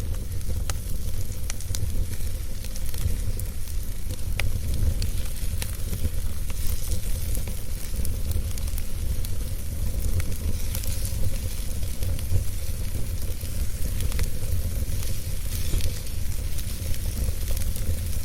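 Wood fire burning, with a steady low rumble and hiss and frequent sharp crackles and pops scattered through it.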